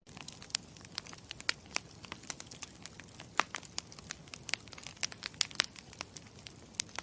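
Wood campfire crackling, with many irregular sharp pops and snaps over a low hiss of the burning fire.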